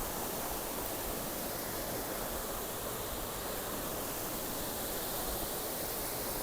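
Kocaçay waterfall: a steady, even rush of falling water.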